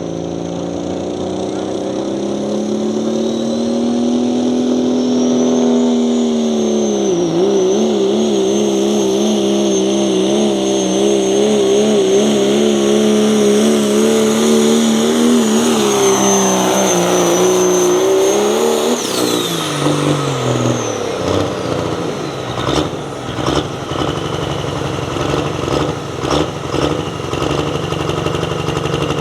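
A pulling vehicle's engine at full throttle during a pull. It revs up, holds a high, wavering pitch under load for about ten seconds, then drops off as the run ends. It finishes with irregular sharp pops as the engine winds down.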